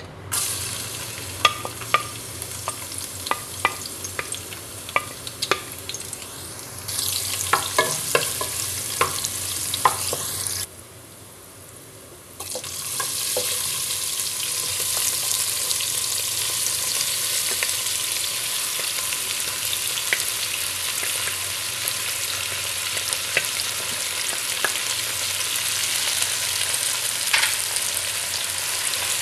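Chopped garlic frying in hot oil in a stainless steel pot, sizzling, with many sharp clicks of a spatula knocking and scraping against the pot. After a short lull about ten seconds in, pieces of softened boiled beef go into the pot and fry with a steady, louder sizzle.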